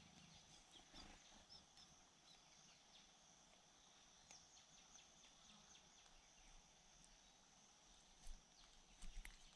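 Faint outdoor ambience: a steady high-pitched hum, a few faint chirps early on, and a couple of soft knocks near the end.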